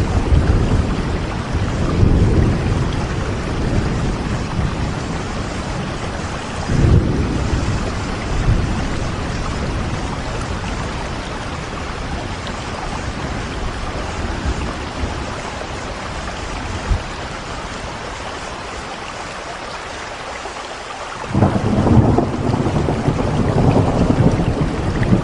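Steady rain falling, with low rolling rumbles of thunder through the first several seconds. The rumble fades to a calmer stretch of rain in the middle and comes back suddenly near the end.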